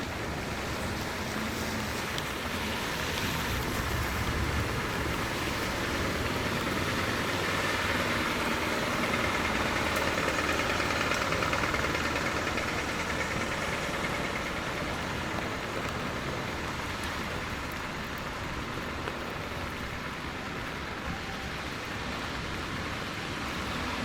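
Rain with wet-street traffic: a steady hiss that swells in the middle, as a vehicle passes on the wet road, and then eases off.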